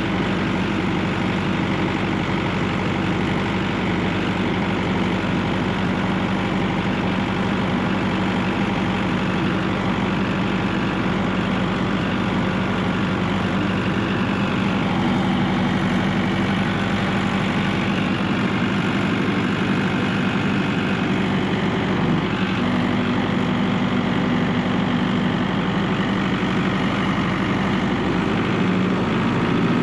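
Tractor engine running steadily, with small shifts in pitch partway through.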